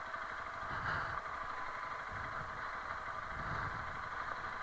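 Honda CRF300L Rally's single-cylinder engine running steadily at low revs, with a faint low rumble and light clatter.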